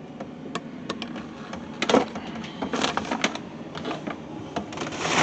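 Food containers and packages being handled in a refrigerator: a run of small clicks, knocks and rustling scrapes, with louder bursts about two seconds in, around three seconds and near the end.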